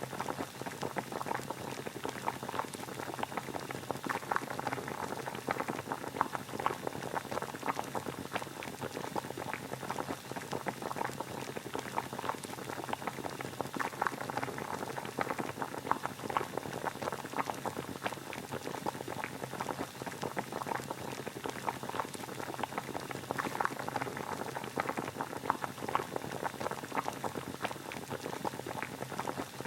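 Water boiling steadily: a continuous dense bubbling of many small pops.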